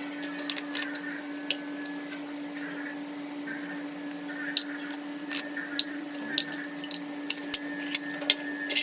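Irregular light clicks and taps from small metal carburettor parts being handled and set down, with brief scratchy rubbing, over a steady hum. A short louder rustle comes near the end.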